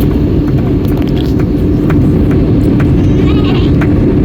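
Airbus A321neo cabin noise: a loud, steady rumble of engines and airflow with a steady hum through it, and a few faint clicks.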